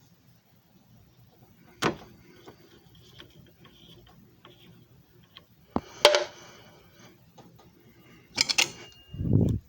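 A few separate sharp clicks and knocks, with a short low thud near the end.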